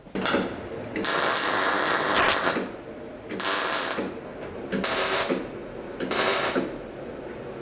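Five bursts of loud hissing noise, the second the longest at about a second and a half, the rest short and spaced a second or so apart.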